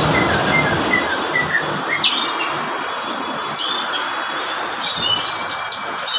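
Branjangan (Javan bush lark) singing a lively, rapid string of short chirping and whistled notes, over steady background noise.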